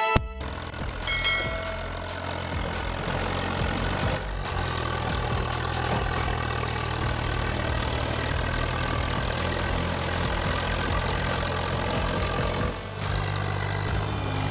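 A vehicle engine running steadily at a low hum, its pitch stepping up about four seconds in and again near the end.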